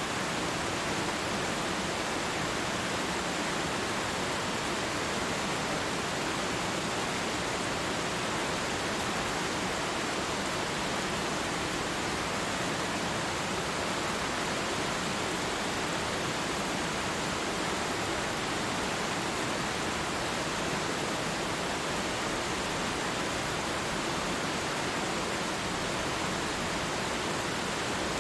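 Waterfall rushing steadily: an even, unbroken roar of falling water with no changes.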